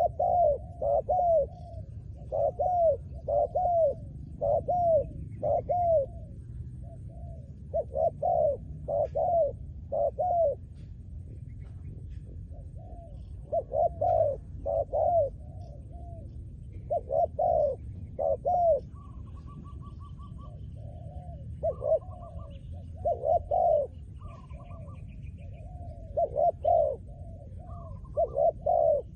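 Spotted dove cooing: repeated phrases of three to five deep, arched coo notes with pauses of a few seconds between phrases.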